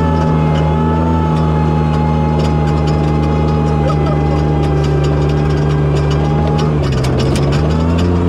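Toyota Tacoma prerunner's engine running at a steady pitch, dipping briefly near the end and then picking back up, with scattered light clicks over it.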